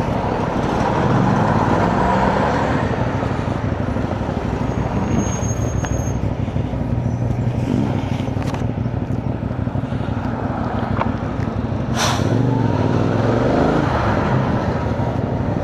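Riding noise from a CFMoto 450NK motorcycle under way: wind rush on the helmet-mounted microphone over the running engine, with the engine pitch shifting a few times. There is one sharp click about twelve seconds in.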